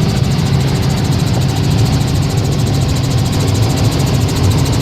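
Helicopter in flight: a steady, loud drone from the engine and rotor, with a fast, even pulsing from the blades.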